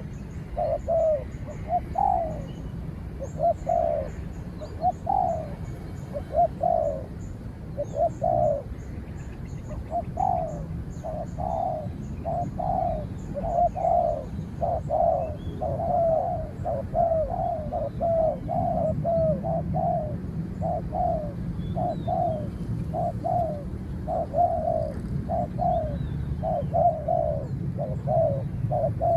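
Spotted doves cooing over and over in quick phrases, the calling of a decoy dove and a wild dove contesting. Faint high chirps from a small bird sound during the first third.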